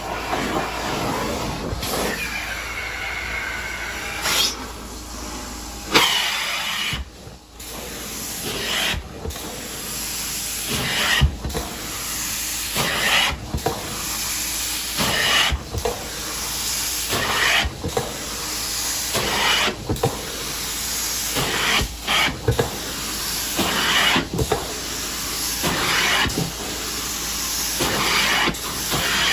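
Carpet-cleaning extraction wand hissing as it sprays and sucks up water, in regular strokes about every two seconds.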